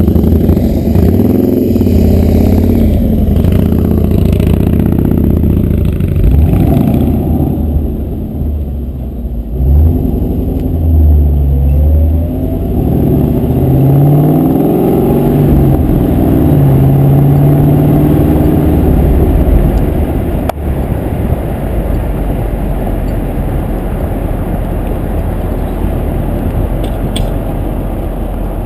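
A vehicle engine revving, rising and falling in pitch over and over. From about 20 seconds in it turns into a steadier rushing sound.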